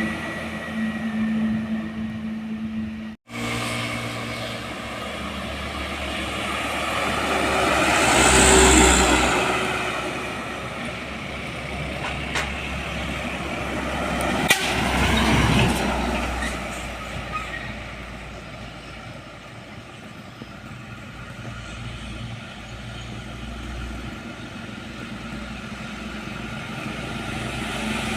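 Road traffic: heavy vehicles passing by one after another, each swelling up and fading away, with the loudest passes about eight and fifteen seconds in. The sound cuts out for an instant about three seconds in.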